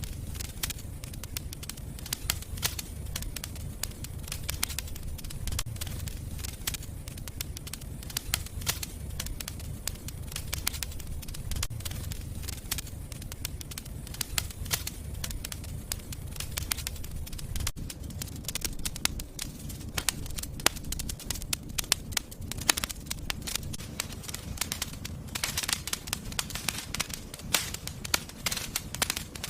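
Wood fire crackling in a fireplace: a steady low rumble of flames with dense, irregular pops and snaps, growing busier near the end.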